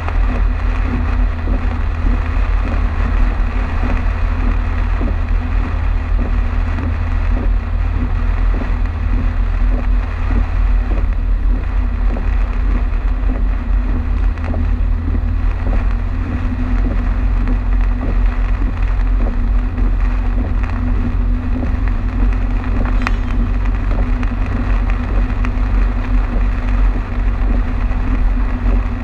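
Car driving on a highway in heavy rain: a steady low road and engine rumble with a constant hum, under a hiss of tyres and rain.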